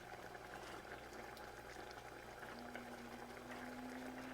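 Pot of thick oxtail and lima bean stew bubbling on the stove, faint scattered pops as bubbles break the surface. A faint steady hum comes in about halfway through.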